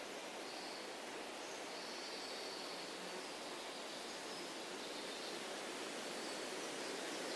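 Steady rushing of a breeze through trees, with faint, scattered bird calls high above it.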